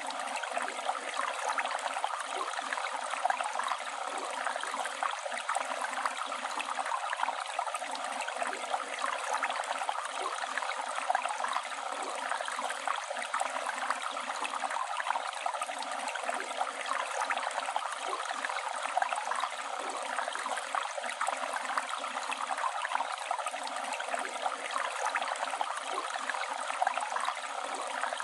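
Flowing river water rushing and gurgling in a steady, unbroken wash.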